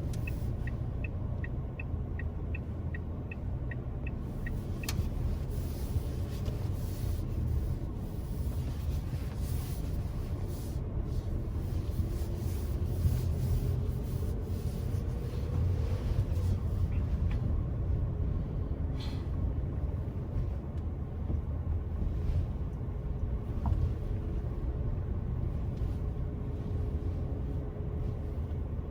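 Steady low road and engine rumble heard from inside a moving car. For the first five seconds the turn-signal indicator ticks about twice a second, then stops.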